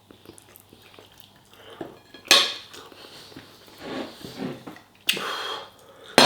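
Metal spoon clinking and scraping against a dish while eating chilli con carne and rice: a quiet start, then a sharp clink about two seconds in, a short scrape about five seconds in and another clink near the end.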